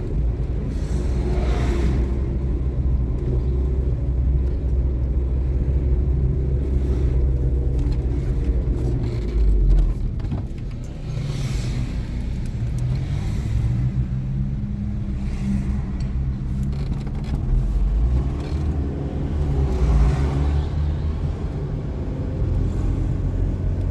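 Motor vehicle engine running while driving: a steady low rumble whose pitch shifts a few times.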